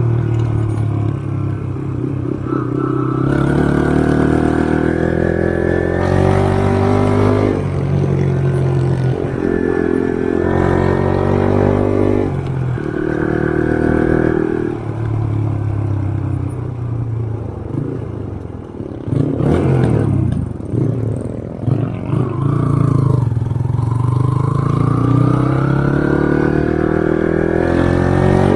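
Motorcycle engine under way on a dirt trail, repeatedly revving up and easing off, its pitch climbing and dropping with throttle and gear changes. About twenty seconds in it falls low with a brief rattle, then climbs again.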